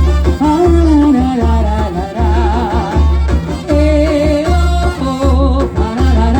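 A bumba-meu-boi band in the orquestra style playing: a wavering melody line over a steady, heavy drum beat.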